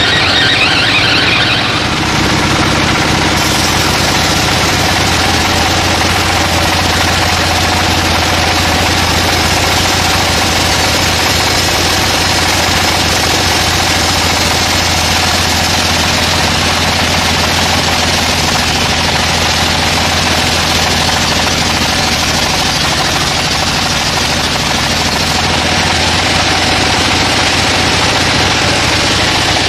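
Sawmill saw machine running steadily, with a loud mechanical drone; its sound brightens a couple of seconds in and then holds steady.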